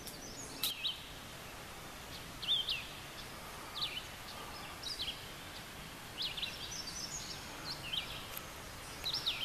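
Small birds chirping: short high chirps every second or so, some in quick pairs, over a steady hiss.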